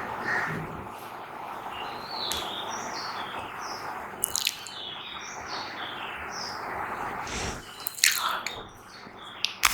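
Close-miked mouth sounds from puffed cheeks: a few sharp wet pops, about four seconds in and again near the end, over a steady hiss with high chirping throughout.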